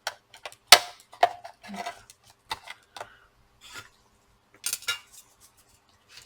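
Laptop parts being handled at the hard-drive bays: scattered small clicks and clinks, the sharpest about three-quarters of a second in and a quick cluster near five seconds.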